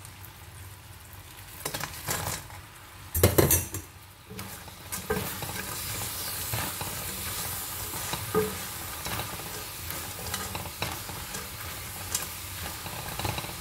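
Orange chicken sauce sizzling and bubbling in a wok, with a spatula stirring and scraping it. There is a loud burst of sizzling and clatter about three seconds in. After that, fried chicken pieces are tossed through the sauce with steadier sizzling and scattered scrapes and knocks of the spatula.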